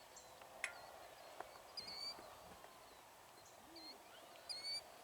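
Faint short bird chirps repeating several times over a low steady background hiss, with a single sharp click about half a second in.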